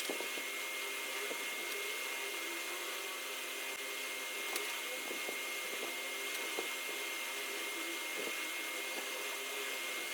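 A small electric motor running steadily with a thin high whine and a few faint light knocks.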